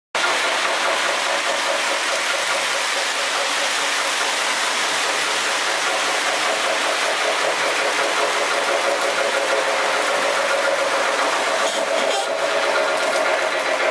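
O gauge electric model trains running on the layout's track: a steady motor whir and wheel rumble with a fast, even clicking rhythm. It cuts off suddenly at the end.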